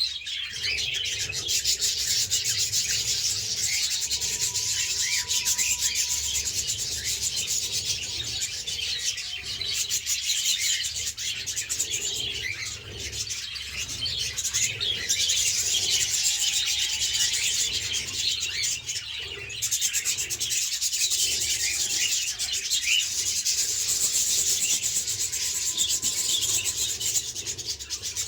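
Caged budgerigars and cockatiels chattering nonstop in a dense, scratchy twitter, with a few longer whistles now and then.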